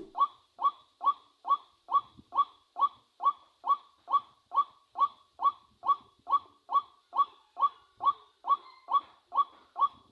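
Recorded bird call played as a trap lure through a small speaker: one short clipped note repeated evenly, about three times a second, without a break.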